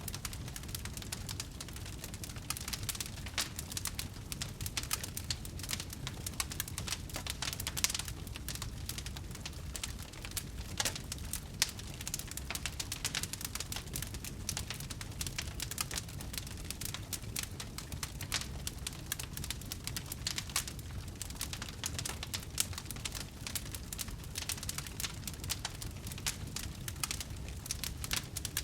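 Wood fire crackling: a dense, irregular patter of small pops and snaps, a few louder ones, over a steady low rumble.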